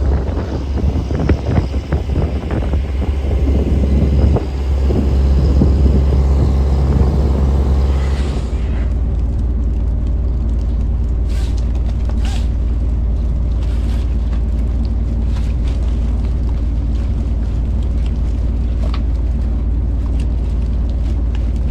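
Bottom trawler's engine running steadily with a deep, constant drone. For the first eight seconds or so, wind buffets the microphone; then the wind noise drops away, leaving the even engine hum with a few light clicks.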